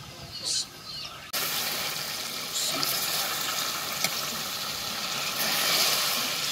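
A pot of chicken frying in hot oil with masala sizzling loudly, starting abruptly about a second in, as wet ingredients such as chopped tomatoes and green chillies hit the pan.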